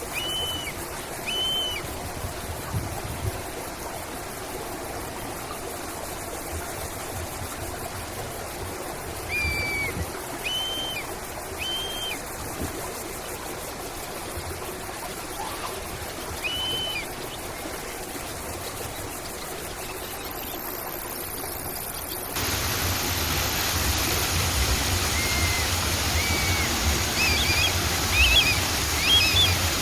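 Steady rush of a flowing stream with short bird calls now and then, two or three chirps at a time. About 22 seconds in, the sound cuts abruptly to louder running water with busier birdsong.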